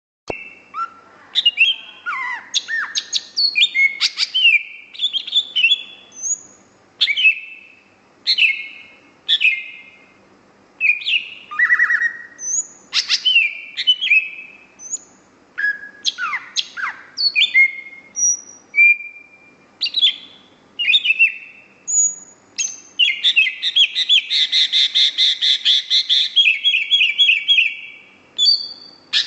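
A small green pet bird calling: a string of separate sharp chirps and whistled notes, many sweeping quickly down in pitch, then a fast chattering trill that runs for several seconds in the last part.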